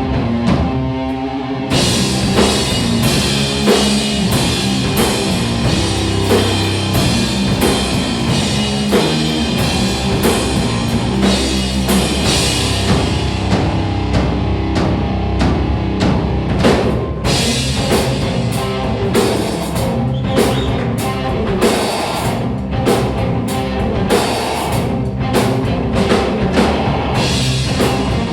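Live stoner/garage rock trio of electric guitar, bass guitar and drum kit playing an instrumental passage. The guitar plays alone briefly, then the full band comes in about two seconds in with a driving drum beat.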